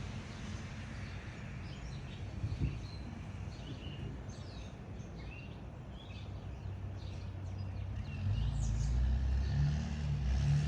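Small songbirds chirping in short, varied notes, over a steady low rumble that gets louder about eight seconds in.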